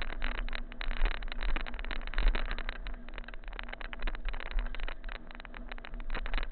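Mountain bike rattling and clattering over a rough, rocky, muddy trail: a dense run of irregular clicks and knocks, with wind rumbling on the microphone.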